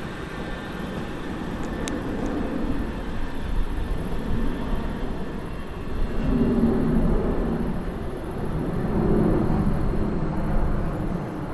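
Train passing, a continuous rumble of wheels on track with a pitched hum that swells louder about six seconds in and again around nine seconds.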